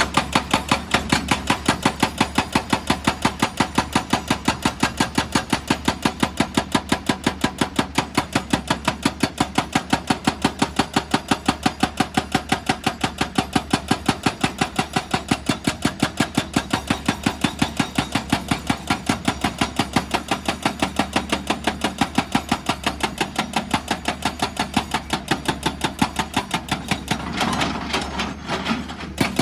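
Excavator-mounted hydraulic rock drill hammering in a fast, even rhythm of about three blows a second, over the excavator's steady engine hum. The blows stop for about a second near the end, then start again.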